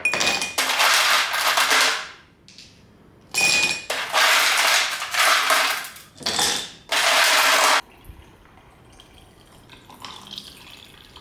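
Kitchen tap water running in several loud bursts, switched on and off, stopping abruptly a little over halfway through; faint clinks of dishes follow.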